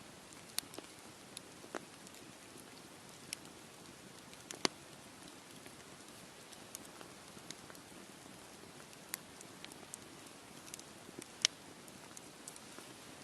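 Wood campfire crackling: a steady soft hiss with irregular sharp pops and snaps, the loudest about four and a half seconds in and again near the end.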